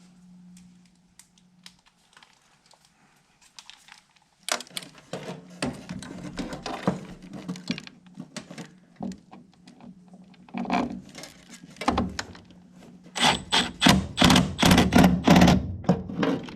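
Clicks and metallic knocks of the last screws being driven and tightened to mount a new furnace inducer draft motor. The clatter is sparse at first and builds to a dense, loud run of clicking near the end.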